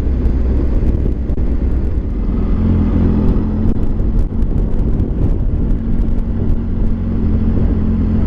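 Triumph Tiger 800 XRT motorcycle's three-cylinder engine running steadily at low speed, settling to an even note about two seconds in.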